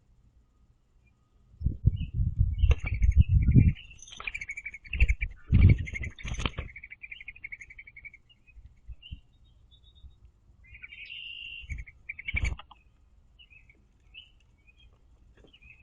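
Mourning dove's wings flapping in loud, fluttering bursts as it tries to land on a bird feeder perch: two long bouts of flapping and a short one near the end. Birds chirp and trill in rapid high notes alongside the flapping.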